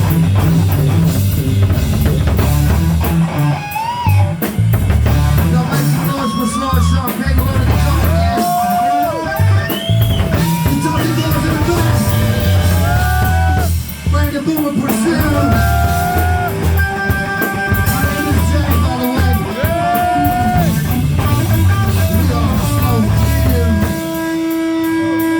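Live rock band playing loud: drum kit and bass pounding under an electric guitar lead of bent, held notes. Near the end one note rings on, held steady.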